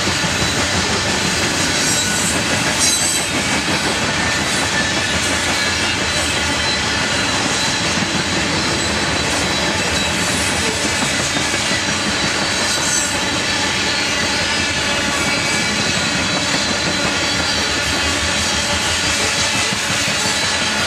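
Coal cars of a BNSF coal train rolling past steadily, a continuous rumble and clatter of steel wheels on rail with a thin, steady high wheel squeal over it.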